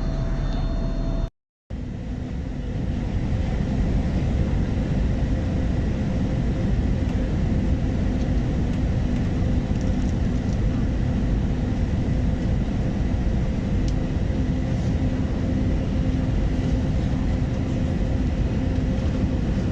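Steady cabin noise of an airliner in cruise: engine and airflow noise with faint steady hums on top, cut by a brief silent gap about a second and a half in.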